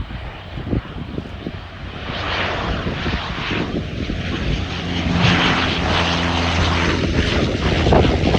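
De Havilland Canada Dash 8-Q100 twin turboprop coming in to land. Its engine and propeller noise swells from about two seconds in as it comes closer, with a steady propeller hum underneath.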